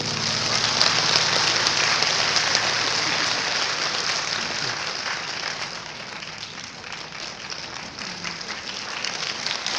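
Audience applauding after a traditional Chinese orchestra piece ends, strongest at first and dying down over several seconds.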